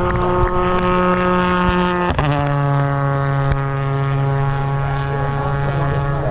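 A touring car's engine running at steady revs, dropping in pitch about two seconds in as if shifting up a gear, then holding steady again.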